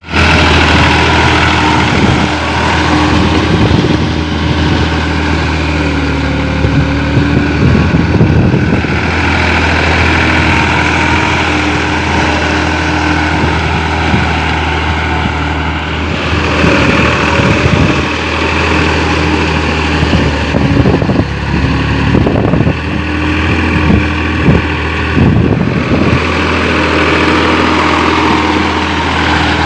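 Case IH JX50T tractor's diesel engine running steadily at working speed, with brief noisy bursts breaking in several times in the second half.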